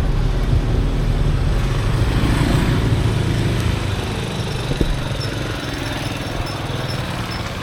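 A small engine running steadily, a little louder over the first few seconds and then easing off, with one short sharp click near the middle.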